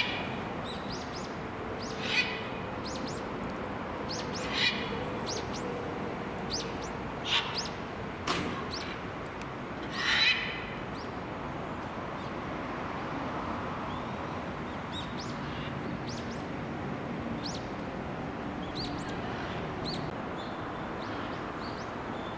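Birds chirping: scattered short, high chirps, with a handful of louder calls every two or three seconds in the first half, then only fainter chirps.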